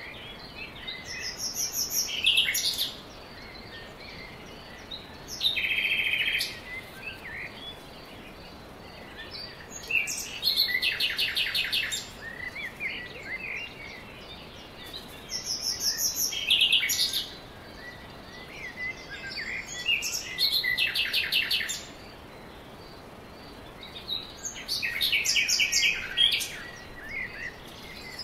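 Songbirds singing in short, high, rapid trilled phrases that repeat every few seconds, over a faint steady hiss.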